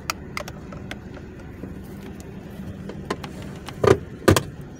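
1970 Pontiac Firebird's engine idling steadily, with a few light knocks and two louder thumps about four seconds in.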